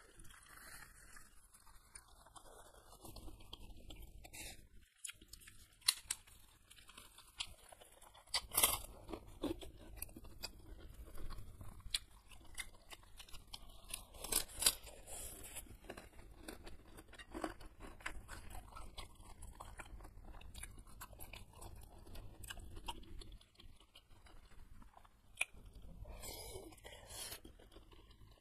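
Close-miked eating sounds: a person chewing, with scattered sharp crunches, the loudest about nine seconds in and again around fifteen seconds in. They come from eating beef meatballs with noodles and crunchy kerupuk crackers.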